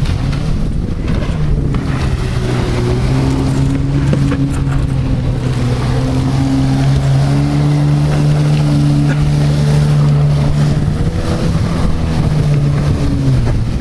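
Jet ski engine running at a steady pitch, rising a little in the first few seconds and holding until it eases off near the end, with wind rumbling on the microphone.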